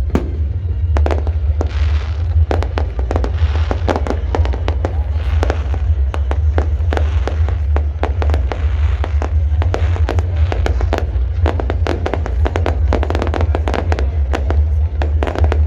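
Fireworks going off in rapid succession: a dense barrage of sharp bangs and crackles, many a second, over a deep steady rumble.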